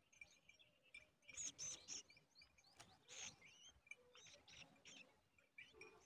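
Nestling birds giving short, harsh, high begging chirps in clusters, loudest about one and a half seconds in and again around three seconds, with fainter chirps between, while an adult is at the nest.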